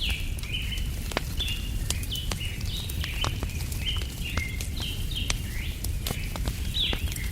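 Birds chirping without a break, many short calls sliding between high pitches, over the scattered sharp pops and crackles of a wood campfire. A low steady rumble runs underneath.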